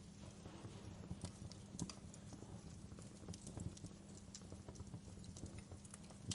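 Wood fire in a fireplace crackling, with irregular sharp pops and snaps over a low, steady rumble.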